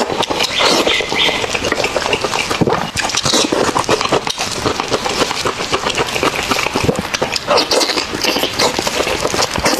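Close-miked chewing of sauced pork ribs: a dense, unbroken run of quick wet smacks, squelches and lip clicks as meat is bitten off the bone and chewed.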